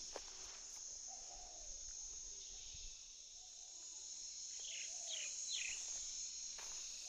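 Steady high-pitched drone of insects, with a few short chirps about five seconds in.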